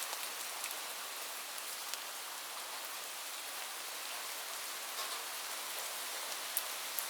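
Steady rain: a dense, even hiss with scattered sharper drop ticks, a couple of them near the end.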